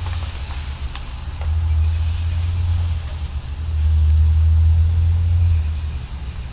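Wind buffeting the microphone: a low rumble that swells and drops back in gusts, with a few faint ticks and one brief high chirp just under four seconds in.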